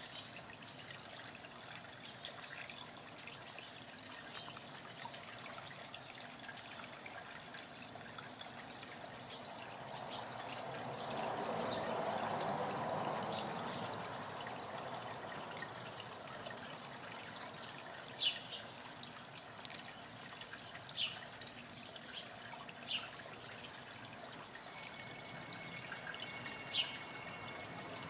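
Short, high bird chirps, single and a few seconds apart, in the second half, over a steady hiss; a broad whooshing swell rises and fades around the middle.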